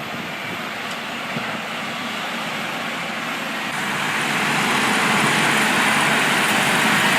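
Caterpillar 627H twin-engine wheel tractor scraper running under load, a steady heavy diesel noise that grows louder a little under four seconds in and then holds.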